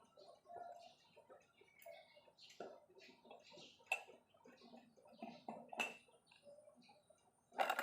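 Sparse light metallic clicks and knocks of engine parts and hand tools being handled during engine assembly, with a louder knock near the end.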